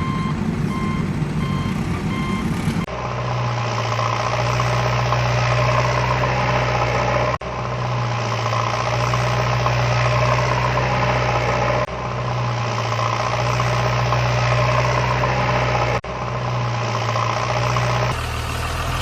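Vehicle engine running steadily at idle, a low even hum. It is preceded by a few evenly spaced electronic beeps. The hum breaks off and restarts abruptly several times.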